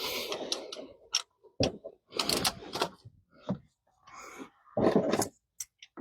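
Hand tools and engine parts clicking and clattering in short, irregular bursts while spark plugs are being changed on a 1988 GMC Sierra engine.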